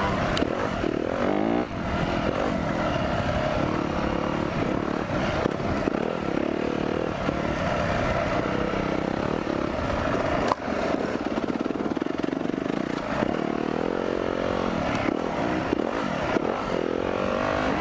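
Four-stroke dirt bike engine running under way, its revs rising and falling with the throttle, with a couple of brief drops in level.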